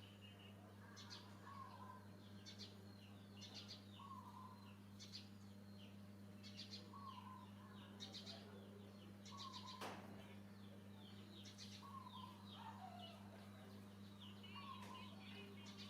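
A bird calling over and over, faint: a short call repeats about every second and a half, with quick high twittering between, over a steady low hum.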